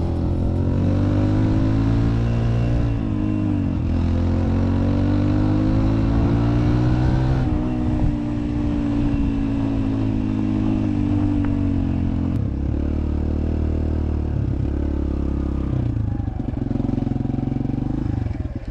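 Dirt bike engine running under changing throttle, its pitch rising and falling, settling lower about twelve seconds in, and starting to die away at the very end.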